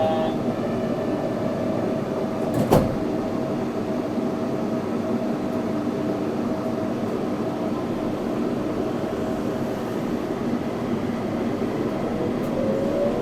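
Yurikamome 7300-series rubber-tyred automated train running, heard from on board: a steady rolling rumble with a faint motor whine. There is one sharp knock about three seconds in, and near the end a whine rising in pitch as the motor speeds up.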